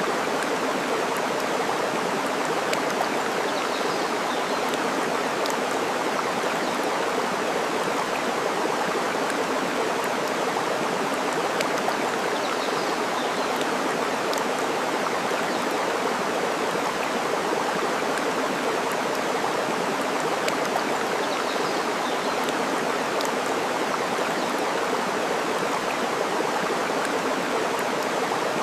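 Steady rushing water of a stream, with a few faint crackling pops from a burning wood fire.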